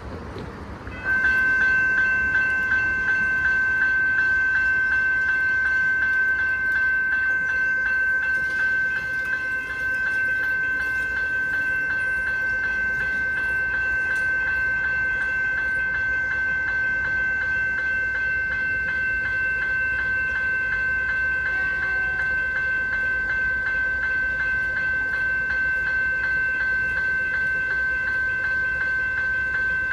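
Level crossing's General Signals electronic bell starts ringing about a second in, a rapid, steady, evenly repeating chime: the crossing has activated, warning of an approaching train.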